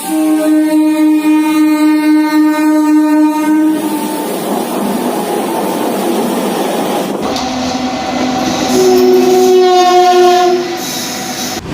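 Indian Railways locomotive air horn sounding one long steady blast, followed by the rushing noise of the passing train. About seven seconds in, a second horn of a different pitch sounds for about three seconds.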